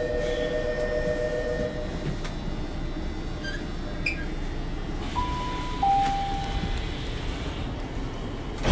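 Inside a Tokyu 6000 series train stopped at a station: a steady two-note electronic tone for the first two seconds, then about five seconds in a two-note falling chime, and a sharp loud thump near the end.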